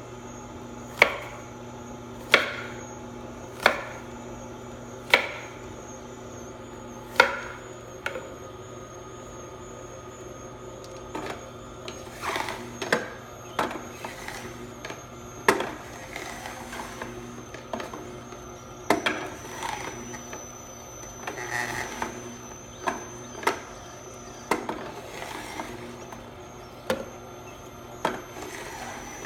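Knife chopping an apple into pieces on a wooden cutting board: sharp chops at first about one every second and a bit, then more irregular chops mixed with short slicing sounds.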